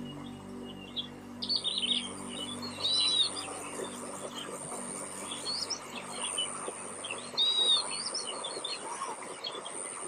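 Wild birds chirping and calling, with many short chirps and a couple of arching whistled notes about three and seven and a half seconds in. Soft background music fades out in the first two seconds.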